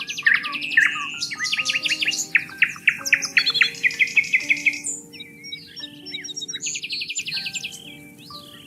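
Songbirds chirping in a busy chorus of quick trills and short down-sweeping notes, thinning out about halfway through, over soft held musical tones.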